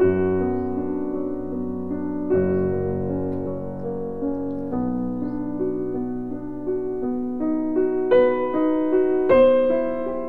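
Background piano music: slow, sustained chords that change every couple of seconds, with higher, busier notes near the end.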